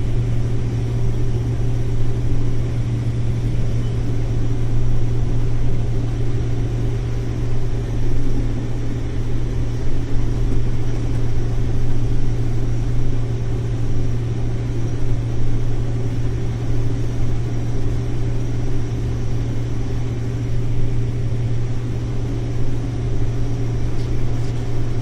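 Combine harvester running steadily while shelling corn: a constant low drone of engine and threshing machinery.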